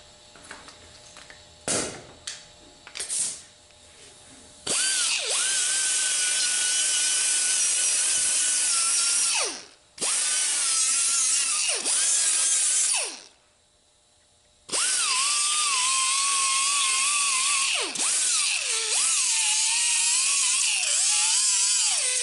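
A few handling clicks and knocks of metal parts, then a handheld power tool run in four bursts of three to five seconds each. Each burst is a loud hiss with a wavering whine whose pitch drops as the tool stops.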